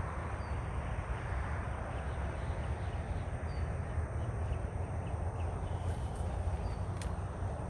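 Outdoor dawn ambience: a steady low rumble and hiss, with faint, short bird chirps scattered through it.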